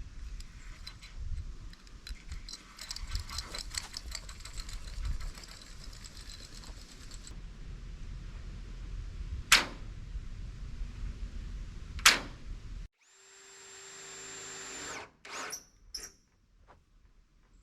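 Hand and power tool work on the build: a run of rapid clicking with a low rumble, two sharp knocks, then a power tool whirring steadily for about two seconds before a few light clicks.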